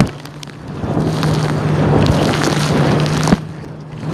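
Engine of a towing boat running steadily under heavy wind buffeting and splashing water. The sound drops away abruptly twice, at the start and again about three and a half seconds in, each time for under a second.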